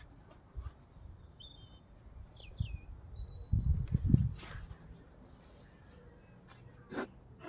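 A small bird chirping a few short calls in the background, over a low rumble of knocks about halfway through and a couple of sharp clicks later on.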